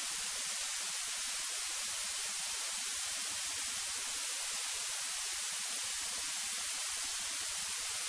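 Steady hiss of a cockpit intercom audio feed, with no engine or propeller sound coming through.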